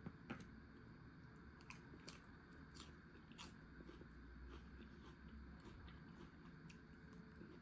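Faint chewing of a crisp salad, with a string of small, irregular crunches over a low steady hum.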